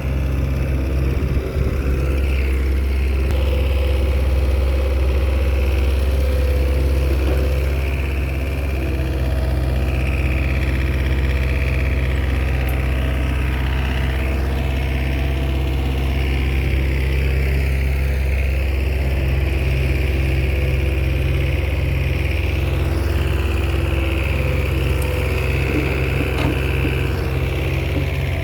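Small Komatsu bulldozer's diesel engine running steadily under work, with a continuous low drone.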